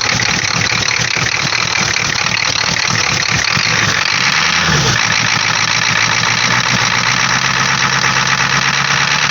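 1986 Ford F-250's 6.9 IDI V8 diesel running rough and uneven, just revived after sitting for years. About four and a half seconds in it revs briefly, then settles into a steadier, smoother idle.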